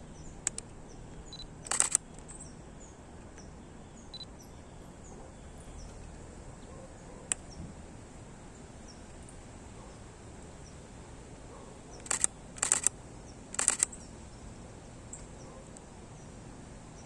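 Canon EOS M50 Mark II camera shutter firing in rapid bursts to catch a moving bird: one short burst about two seconds in, a single click midway, and three quick bursts near the end.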